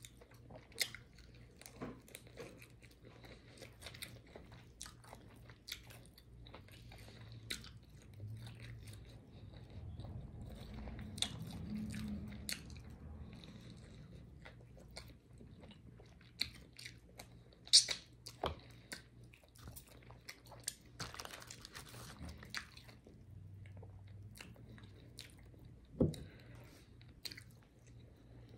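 Close-up chewing and biting of fried chicken wings, with irregular crisp crunches and sharp clicks, a few of them louder.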